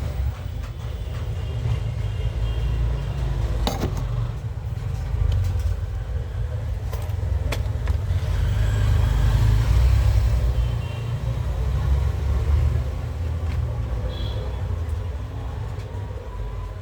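Steady low rumble, with a few sharp clicks about four and seven seconds in.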